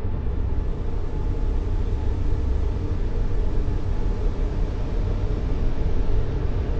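Steady white noise for soothing a baby, deep and rumbling, with most of its weight in the low end and only a faint hiss on top. It runs unchanged, with no beat or pulse in it.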